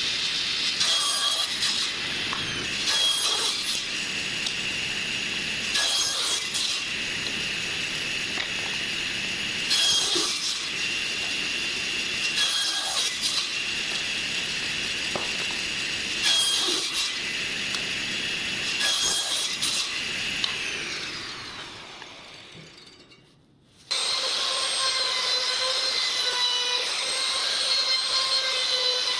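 Electric power tool working wood, with a steady high whine and louder scrapes every few seconds. About 21 seconds in, the motor's pitch falls and it dies away. After a brief hush, a power-tool motor starts abruptly and runs with a steady whine.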